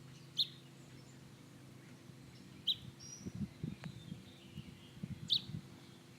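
Small bird chirping: three short, high chirps a couple of seconds apart. Faint low rustling and knocks can be heard between the second and third chirps.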